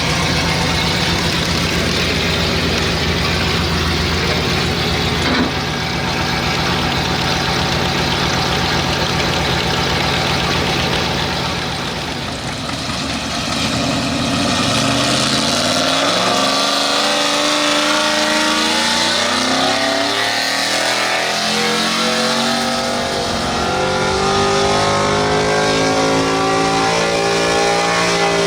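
A street stock gas pulling truck's engine running hard at high rpm, then winding up in pitch in repeated rising surges through the second half.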